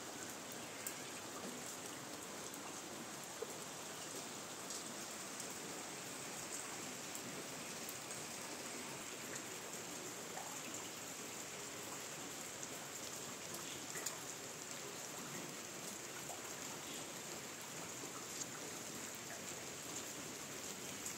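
Steady rain falling on garden foliage: an even hiss with scattered individual drops ticking.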